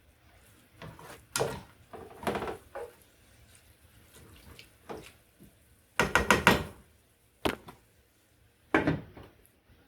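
Cooking utensil knocking and scraping against a nonstick skillet as the lo mein is stirred: a handful of separate knocks, with a quick cluster of clattering about six seconds in the loudest.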